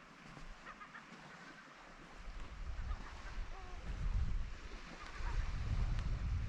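Seagulls giving short calls here and there, over wind rumbling on the microphone that grows stronger after about two seconds.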